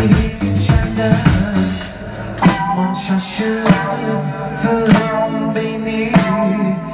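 Live band playing an instrumental passage of Turkish psychedelic folk-rock, with guitar and drums. About two seconds in, the bass and busy drum groove drop out, leaving held chords marked by a hit a little more than once a second.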